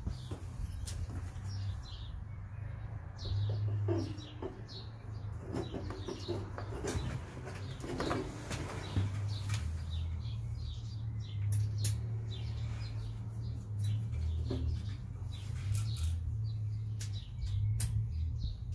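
Small birds chirping again and again, mixed with scattered clicks and knocks from metal engine and tractor parts being handled, over a steady low rumble.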